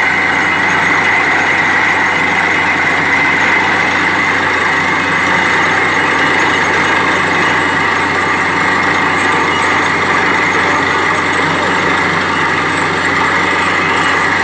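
Borewell drilling rig's engine running steadily: a loud, constant mechanical drone with a steady high whine over it.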